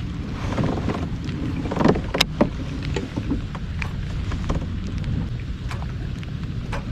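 Rain on open water with wind buffeting the microphone: a steady low rumble with scattered sharp ticks of drops, one louder tick about two seconds in.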